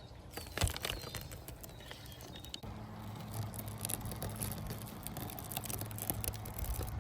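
Small clicks and rattles of a die-cast replica garbage truck's parts being handled and worked, with one louder knock early on, and a steady low hum that comes in a little under three seconds in.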